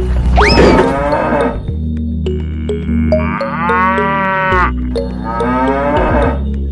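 Cattle mooing, three drawn-out calls, over background music with a steady low bass line.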